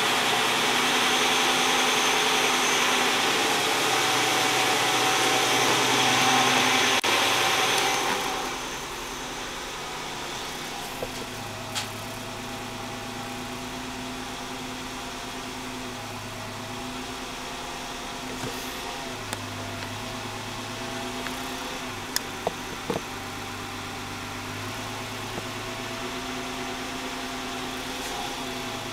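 2004 Nissan Xterra's V6 engine running at about 1000 rpm idle, with the check-engine light on for a cylinder-6 misfire and a high-input air inlet temperature sensor code. A loud, steady rushing noise fills the first several seconds. About eight seconds in it drops to a quieter, steady idle hum with a faint rhythmic pulse, heard from inside the cabin, with a few light clicks.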